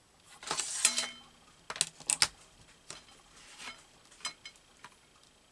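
Paper cutouts rustling as they are handled, followed by a few sharp clicks and smaller taps of small hard objects or tools on the work surface.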